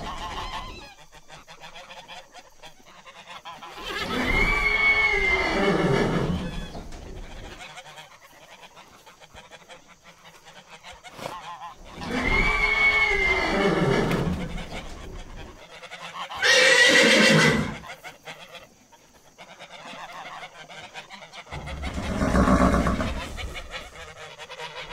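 Farm animal calling: long calls that rise and fall in pitch, repeating roughly every eight seconds, with a short loud noisy blast about two-thirds of the way through.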